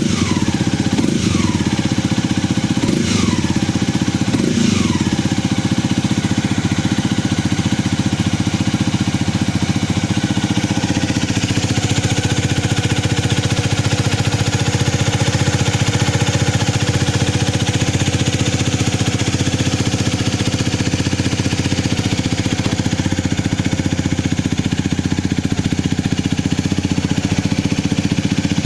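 Honda CL250 motorcycle engine idling through an SP Takegawa SSS aftermarket muffler. In the first five seconds the throttle is blipped three times, each rev falling back to idle, and then it idles steadily.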